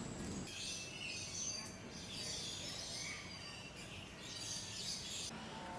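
Small birds chirping and twittering in high-pitched bursts, over a steady low background noise.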